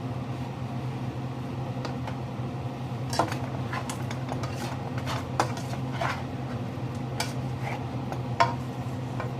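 Cooking utensil clinking against a pan about six times, over a steady low hum.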